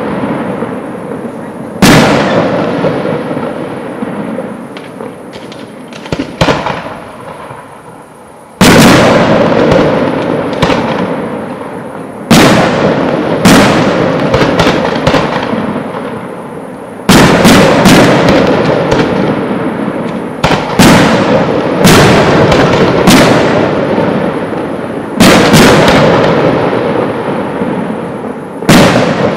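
Aerial firework shells (spherical ball shells) bursting overhead: about a dozen sharp bangs at irregular spacing, sometimes two within a second, each followed by a long rolling echo that dies away.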